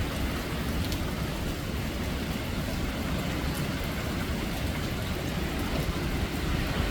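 Hurricane wind and rain, a steady rushing noise with the wind buffeting the microphone.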